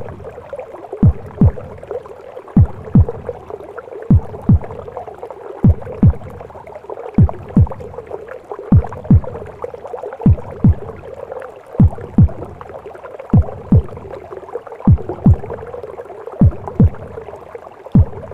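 A mother's heartbeat as heard in the womb: slow, deep lub-dub double thumps about every second and a half, over a steady rushing womb-like noise.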